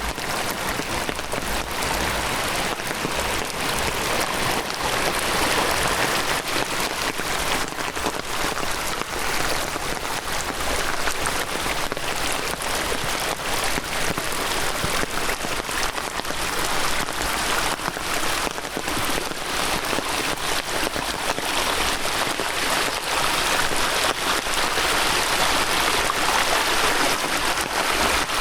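Heavy rain falling steadily: a dense hiss of drops with many small ticks from drops striking close by.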